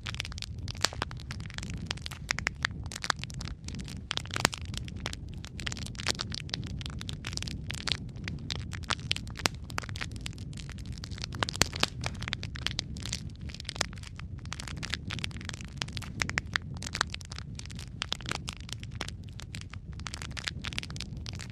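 Wood fire burning in a fireplace: a steady low rumble of the flames under dense, irregular crackles and sharp pops.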